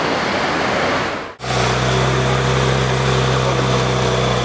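Road traffic noise that cuts off suddenly about a second and a half in, giving way to a Ferrari 458 Italia's V8 idling steadily.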